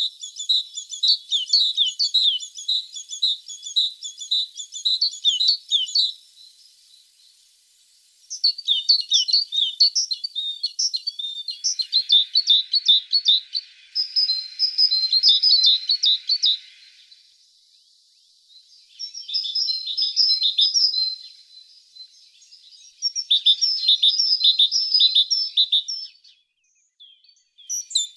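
A tit (titmouse) singing: phrases of rapid, high trilling notes a few seconds long, broken by pauses of about two seconds.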